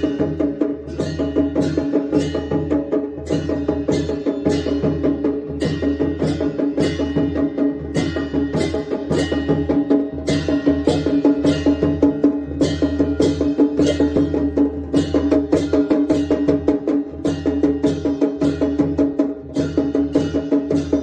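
Large brass hand cymbals clashing in a steady beat, about two strokes a second, over a continuous drum-like drone, as ritual percussion for a Devi puja.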